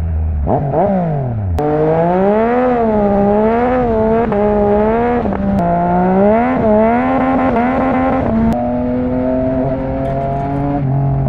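Yamaha MT-09 motorcycle's three-cylinder engine under way, its pitch rising and falling with the throttle. There is a quick rev up and down near the start, then repeated surges, and the pitch settles steadier near the end.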